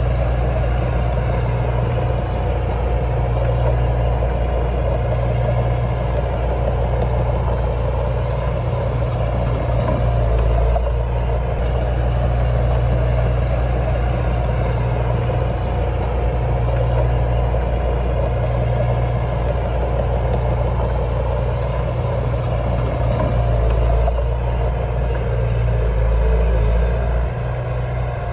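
Heavy diesel engine running steadily with a strong low drone, its level swelling slightly now and then.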